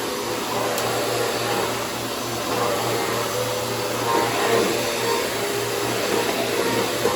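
Bissell CleanView 3536 vacuum cleaner running steadily while vacuuming a hard floor, a continuous motor whir with a low hum.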